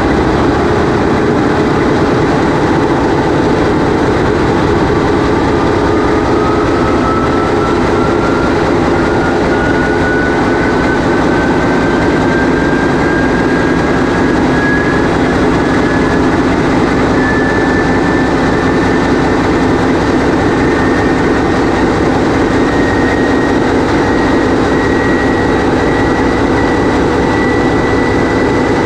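TEP70 locomotive's 16-cylinder 5D49 turbocharged diesel engine running loud and steady, heard from inside the engine room. From about five seconds in, a whine rises slowly and steadily in pitch as the engine builds up speed.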